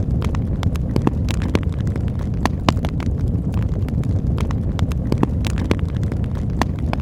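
Campfire burning: a steady low rush of flame with frequent sharp, irregular crackles and pops from the burning wood.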